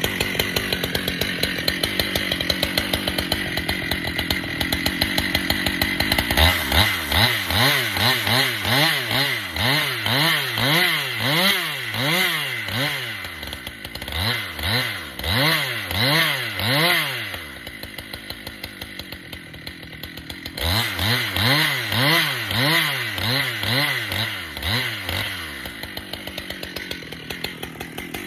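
Husqvarna chainsaw bucking red oak, running at high revs. For long stretches its pitch rises and falls about twice a second as the chain works through the wood. It eases to a softer, steadier run in the middle and again near the end.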